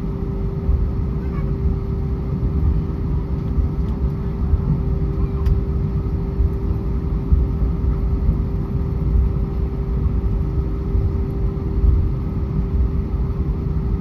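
Airbus A320 cabin noise with the engines running on the ground: a steady low rumble under one constant hum.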